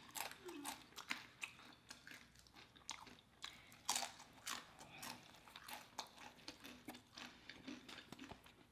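Close-miked eating: tortilla chips crunching and a burrito being bitten and chewed, heard as quiet, irregular crackles and mouth clicks.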